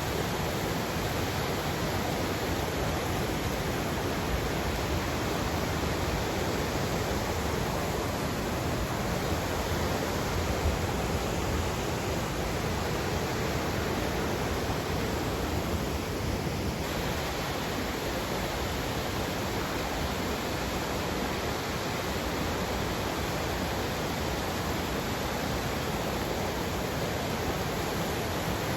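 River water flowing and rushing in a steady, unbroken stream.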